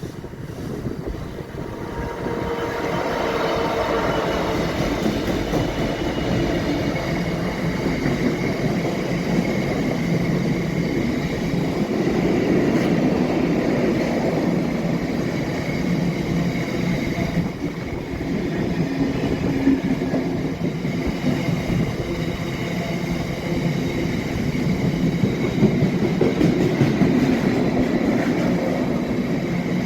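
Two British Rail Class 66 diesel-electric locomotives, with EMD two-stroke V12 engines, passing close by: engine drone and wheel-on-rail noise build over the first couple of seconds, then stay loud and steady.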